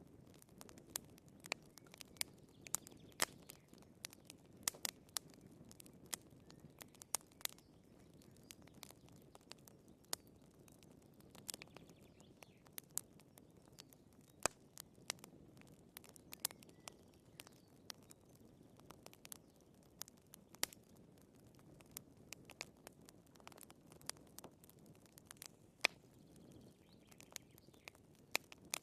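Wood fire burning in a fireplace: irregular sharp crackles and pops over a soft low hiss of flame.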